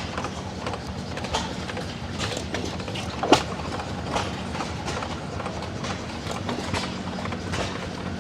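Old stationary hit-and-miss gas engines running together: a steady low chugging drone with irregular knocks and pops, and one sharp pop a little over three seconds in.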